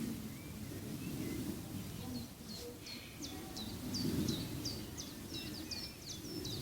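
A songbird singing a rapid string of short, high, sharply falling whistled notes, about three a second, starting about two seconds in. Beneath it is a steady low rumbling background noise.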